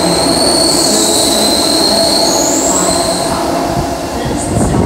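Sydney Trains electric train running fast past the platform and away into the tunnel, its rumble echoing in the underground station. A high steady squealing whine sounds over the rumble for about the first three seconds. The sound then eases off, with a short low rumble just before the end.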